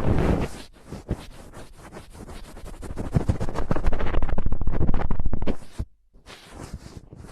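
Close-miked ASMR trigger sound of rapid scratching and crackling, heavy in the low end and swelling to its loudest a few seconds in, then cutting out abruptly about six seconds in before a quieter patch.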